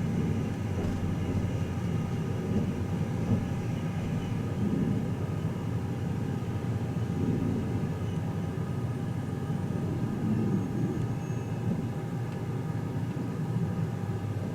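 Inside the cabin of the Twilight Express Mizukaze, a JR West 87 series diesel-electric hybrid train: a steady low rumble with a droning hum from the train's drive as it pulls into a station and comes to a stop.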